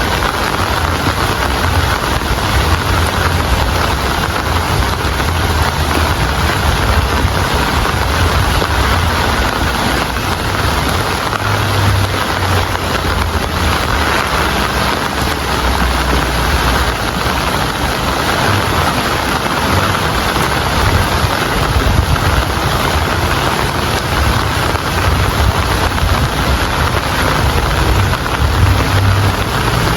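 Steady, heavy rain falling, an even hiss with no breaks, with a low rumble underneath that swells and fades.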